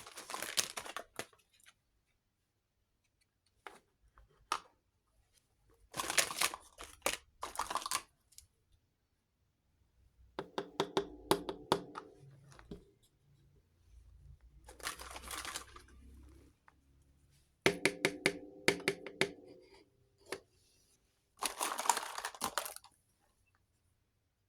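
Miniature toy kitchen pieces and their plastic packaging being handled in short separate bursts of clicking, crinkling and rattling, with quiet between bursts. Two of the bursts have a light ringing tone.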